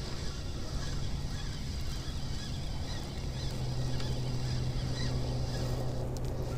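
A distant motor running steadily, a low hum that grows louder about halfway through, over outdoor wind hiss.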